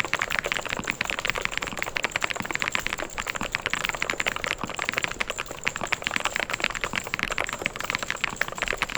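Fast, continuous typing on a mechanical keyboard: a dense stream of key clicks and clacks with no pauses.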